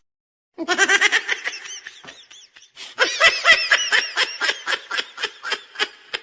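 A person laughing hard in two long runs of quick, high-pitched 'ha' sounds, about six a second, with a short break about two and a half seconds in.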